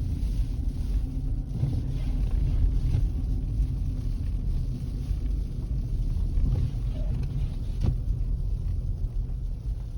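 Wind gusting over the microphone in a snowstorm, a deep uneven rumble that rises and falls.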